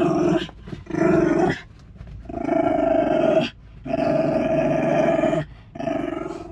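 A dog growling in five drawn-out, rough growls, each up to about a second and a half long, with short breaks between them.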